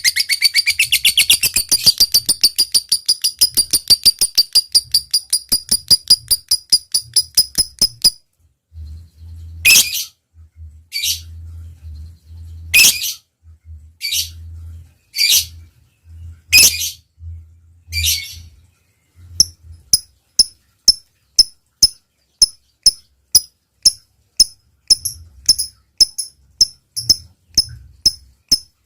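Lovebird in full song: a long fast chattering trill (ngekek) that slows over about eight seconds, then a few single harsh calls, then sharp clicking notes at about two a second (ngetik).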